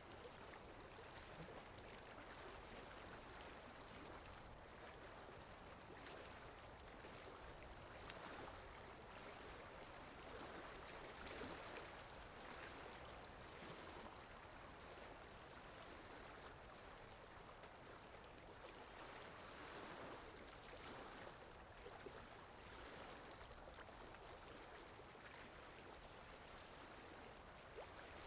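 Rain falling steadily: a faint, even hiss with slight swells now and then.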